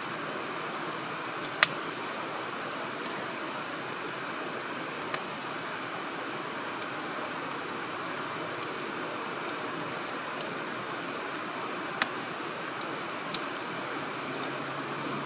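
Wood fire burning in a fire grill: a steady rushing hiss with a handful of sharp pops from the burning wood, the loudest about one and a half seconds in and about twelve seconds in.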